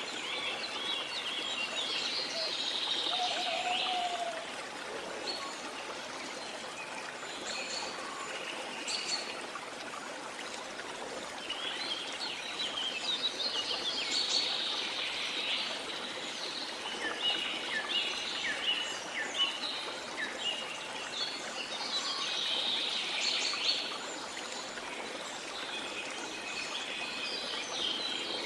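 Small songbirds chirping and twittering in repeated spells over a steady wash of sea water.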